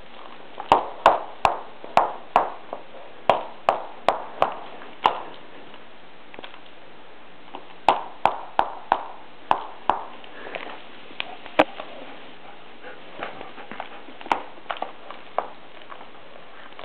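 A bulldog puppy's rubber ball, which no longer squeaks, knocking and bouncing on a hard floor as she plays with it: runs of sharp knocks, two or three a second, with scattered single knocks in between.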